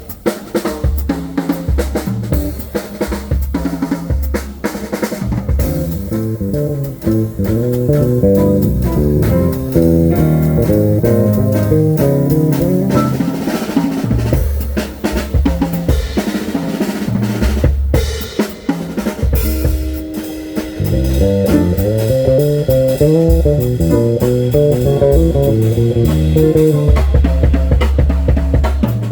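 Live band playing an instrumental passage: a drum kit with bass drum and snare keeps a steady beat under guitar and bass lines.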